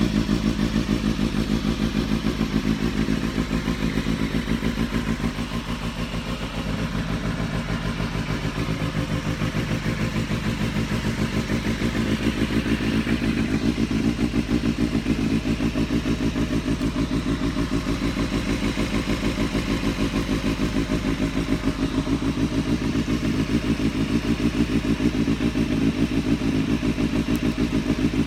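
Suzuki Bandit 250 inline-four motorcycle engine idling steadily through an aftermarket Akrapovič muffler, with an even, rapid exhaust pulse. It dips slightly about six seconds in.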